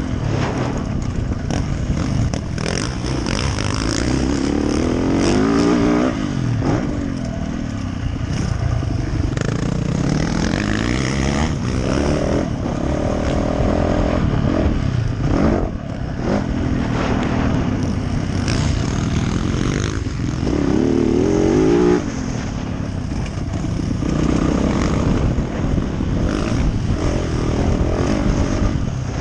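Yamaha YZ450F motocross bike's four-stroke single-cylinder engine ridden hard, its pitch repeatedly climbing as the throttle opens and dropping off between gears and corners.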